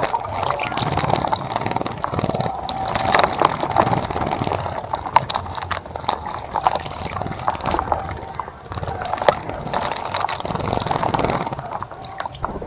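Birds bathing in a birdbath: water splashing and sloshing in quick, irregular flicks, with a few short chirps mixed in.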